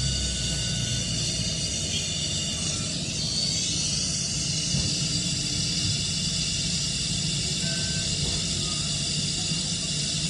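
Gas brazing torch flame hissing steadily over a low rumble while the condenser tube is brazed to the refrigerator's filter drier. The hiss shifts briefly about three seconds in.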